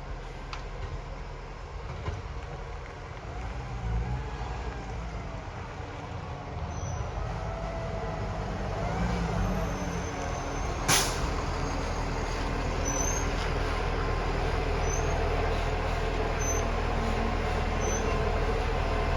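Garbage truck engine running, growing louder over the stretch, with some rising and falling whine in the middle and a single brief sharp burst about eleven seconds in.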